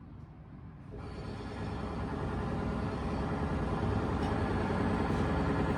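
A vehicle engine's rumble that comes in about a second in and grows steadily louder.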